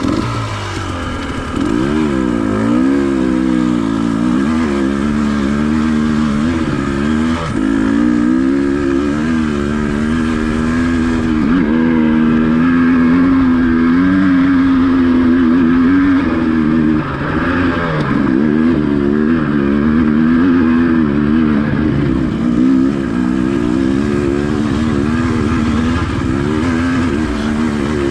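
Dirt bike engine revving under load on a hill climb, its pitch rising and falling over and over as the throttle is worked.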